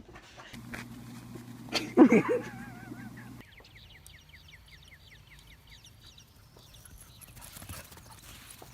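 An animal calling: a loud wavering call about two seconds in, then a quick run of short falling chirps, about four a second, over a low steady hum.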